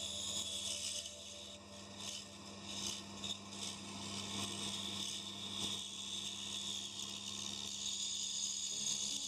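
Pégas scroll band saw running steadily with a low hum and a high whine. About one and a half to four seconds in, pine offcuts rub and rattle as they are worked free of the block.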